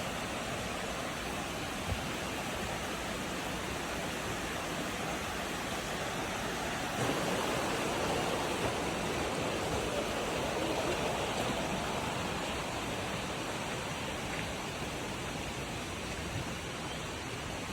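Steady rush of falling water from a waterfall, a little fuller from about seven seconds in.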